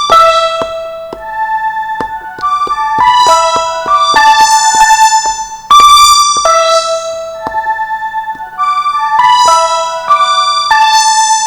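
Roland M-DC1 sound module playing a keyboard-like synth patch: chords of ringing, decaying notes struck in a repeating phrase, with the clicks of the controller's pads being tapped.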